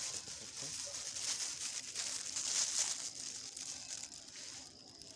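Plastic rustling and crinkling as picked-up litter is stuffed into a plastic garbage bag, easing off near the end.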